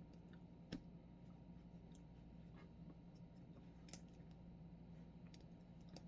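Near silence: room tone with a faint steady low hum and a few scattered faint clicks, the sharpest one about a second in.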